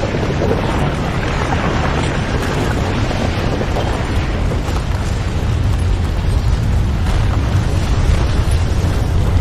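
Earthquake sound effect: a continuous deep rumble with a rough, crackling noise over it, growing a little louder toward the end.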